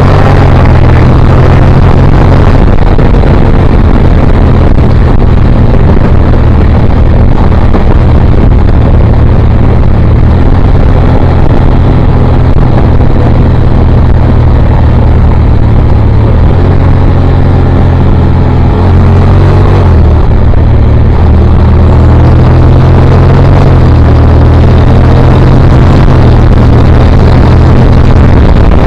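Motorcycle engine and exhaust running hard at speed, very loud. The engine pitch shifts a few times, around the middle of the stretch.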